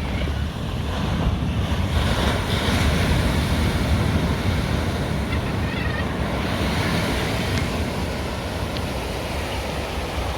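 Ocean surf washing in, with wind rumbling on the microphone; the wash swells a little a few seconds in.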